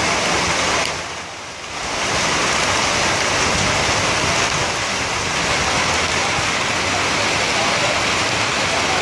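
Heavy rain falling, a steady dense hiss that drops away briefly about a second in and then returns.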